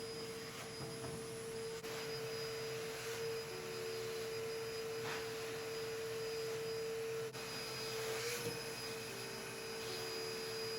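A small electric power tool motor running steadily, with an even hum on one high-pitched note over a hiss, briefly broken twice.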